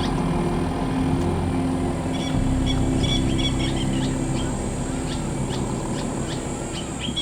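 Safari vehicle engine running steadily while driving, its low hum shifting about two seconds in, with birds chirping over it.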